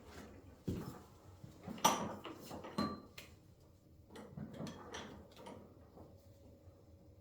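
Irregular clicks and knocks of motorcycle suspension parts being handled and fitted, with the loudest knock about two seconds in.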